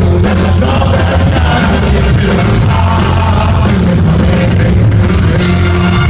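Live band playing loud rock-style music with a heavy, steady bass line, recorded from the crowd.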